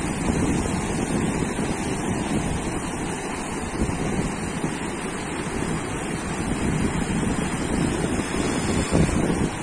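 Ocean surf washing onto a sandy beach in a steady, continuous rush, with wind buffeting the microphone.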